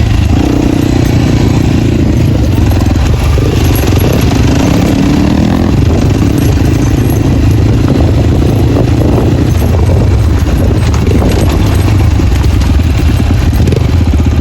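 Dirt bike engine running loud with no dB killer in its exhaust while riding off-road, its note shifting a little with the throttle.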